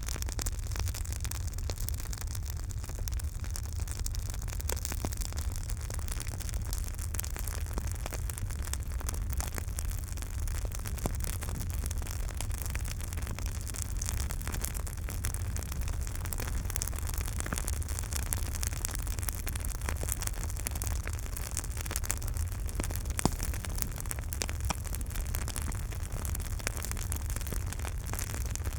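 Campfire burning, with frequent small crackles and pops over a steady low rumble of the flames, and one sharper pop about three-quarters of the way through.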